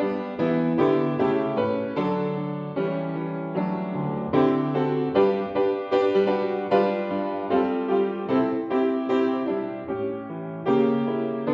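Piano music played as an offertory: slow chords and melody notes struck and left to ring.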